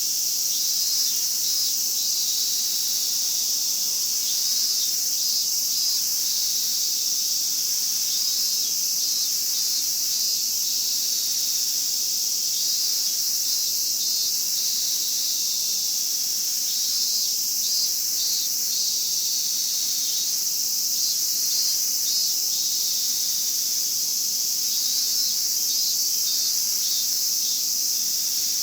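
Chorus of Japanese cicadas: a steady, high, shrill buzz, with shorter pulsed phrases from individual callers coming and going every second or two.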